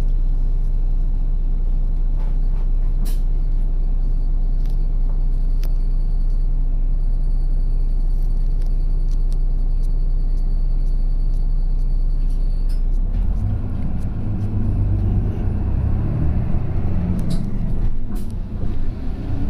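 Route bus's diesel engine heard from inside the cabin, running steadily at idle, then about thirteen seconds in picking up into a rougher, louder rumble as the bus moves off, with a rising whine near the end as it gathers speed.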